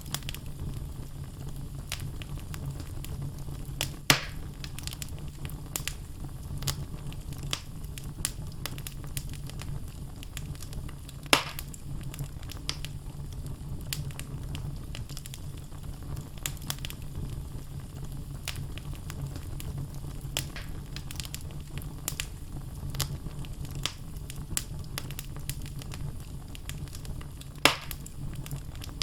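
Wood fire burning in a fireplace: a steady low rumble of flames with frequent small crackles of the logs, and three louder pops at about four seconds, eleven seconds and near the end.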